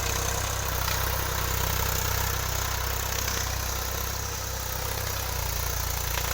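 Farm tractor engine running steadily while ploughing a field, a constant low engine note under a broad rumble.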